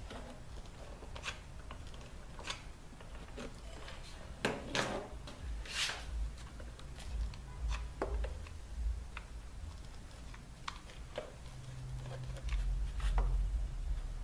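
Scattered taps, clicks and rustling of small objects being handled, with a longer scraping rustle about five seconds in.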